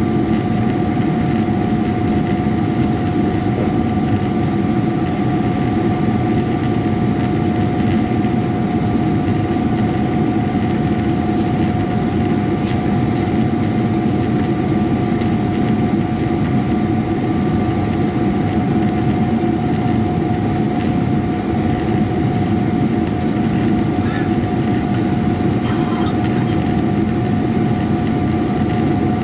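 Boeing 777-300ER's GE90 jet engines heard from inside the passenger cabin: a steady roar with a constant high whine over it.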